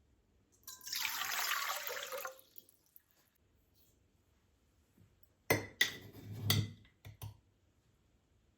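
Water running for about two seconds, then a quick cluster of knocks and clinks.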